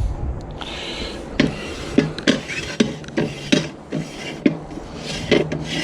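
Metal tools clinking and knocking together in irregular short strikes, about one or two a second, as sockets are rummaged through in a toolbox.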